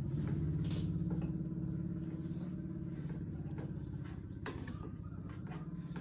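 A motor running with a steady low hum that slowly fades, with a few light knocks over it.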